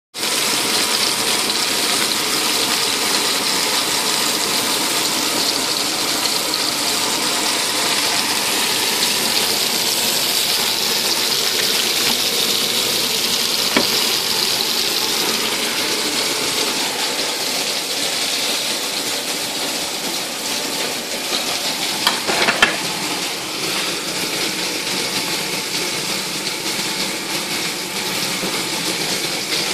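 Vegetable skewers sizzling steadily in an oiled frying pan, with a few short clicks of utensils about halfway through and again about two-thirds of the way in.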